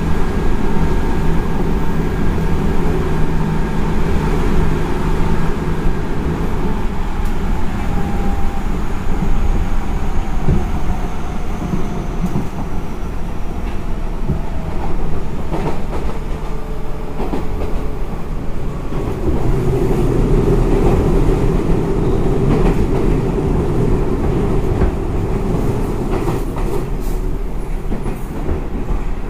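Seibu 6000 series electric train heard from inside, running at speed: a steady rumble of wheels on rail with scattered rail-joint clicks. Faint whines from the Hitachi GTO VVVF inverter drive slowly fall in pitch in the first half. The rumble turns rougher and louder about two-thirds of the way through.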